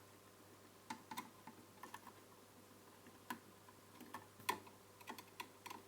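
Faint, irregular clicks and taps of parts being handled during reassembly of an opened LCD TV, the loudest about four and a half seconds in.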